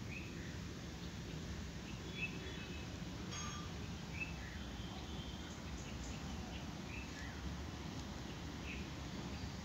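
A bird giving short high chirps, repeated about every one to two seconds, over a steady low background rumble.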